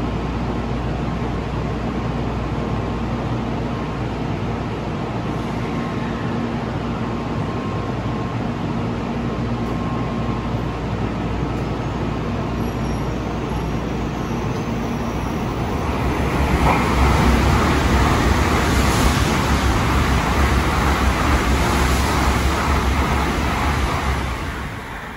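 N700A Shinkansen train pulling out of the platform: a steady hum from the train at first. From about two thirds of the way through, a louder rushing rumble builds as the cars speed past, and it falls away sharply near the end as the last car clears.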